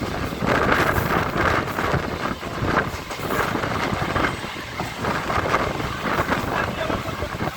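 EMU local train running along the line, heard from on board: a steady rumble and rattle of the train in motion, with wind buffeting the microphone.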